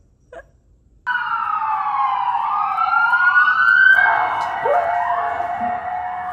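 Emergency-vehicle sirens wailing outside, several overlapping tones rising and falling in pitch, starting suddenly about a second in.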